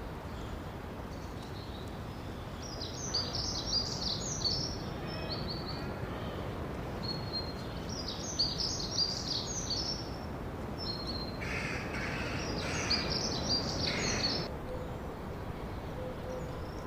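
Songbirds singing in short phrases of quick, high chirping notes, three bursts a few seconds apart, over a steady background hiss of outdoor ambience.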